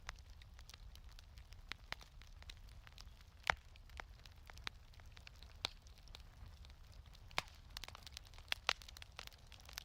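Wood fire crackling in a fireplace: irregular sharp pops and snaps, a few of them louder, over a faint low rumble.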